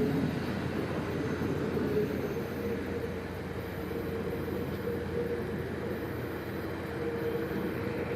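Train running along the track: a steady rumble with a faint steady hum running through it.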